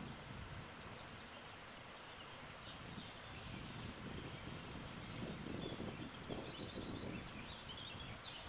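Small birds chirping over a steady low rush of wind, the birdsong busier in the second half.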